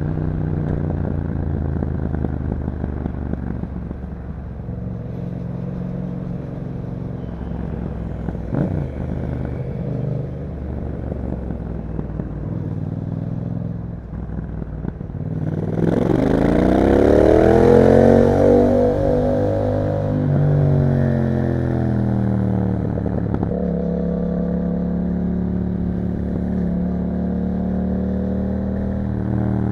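A 2021 Yamaha MT-07's parallel-twin engine through an Akrapovic exhaust, heard on the move: steady cruising, then a brief ease-off about halfway. The engine then revs hard in a rising climb that peaks, falls back as the throttle closes, and settles into steady cruising again. Wind rush comes up with the climb.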